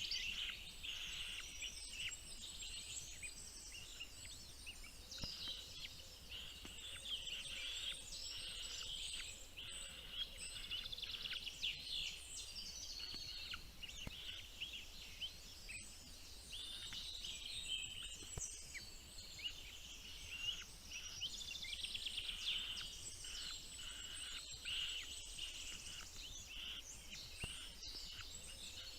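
Small birds chirping: a dense, continuous chatter of high, thin, rapid notes.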